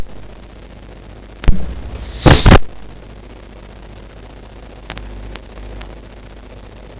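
Steady microphone hiss and hum, broken by a loud clipped thump about one and a half seconds in and a longer crackling burst about a second later, then a few soft clicks.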